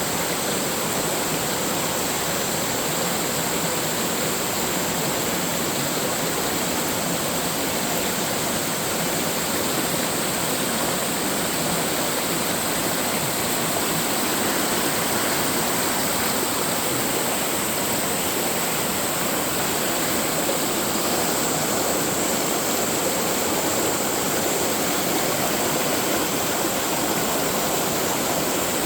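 Valley stream flowing, a steady, unbroken rush of water.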